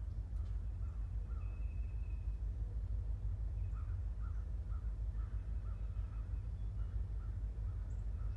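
Runs of short repeated bird calls, about two or three a second, over a steady low rumble.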